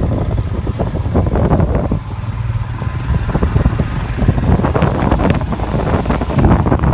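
Royal Enfield Himalayan's single-cylinder engine running steadily on the move, with wind buffeting the microphone in irregular gusts.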